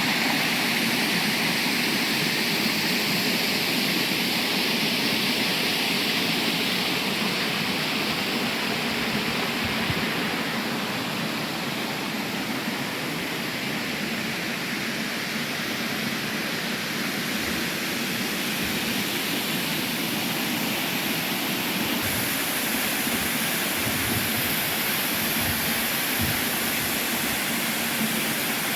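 Waterfall with steady rushing water. Its tone shifts slightly about a third of the way in and again near the end.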